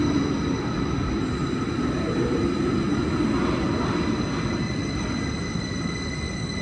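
Electric train running, a steady rumble with a high, steady whine over it, slowly getting quieter.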